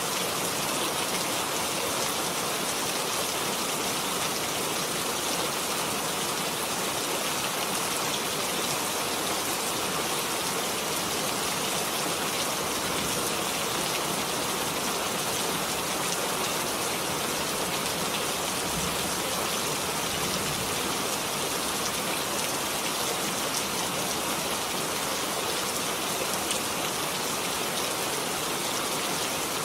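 Steady rainfall, an even hiss of raindrops falling on a surface, unchanging in level.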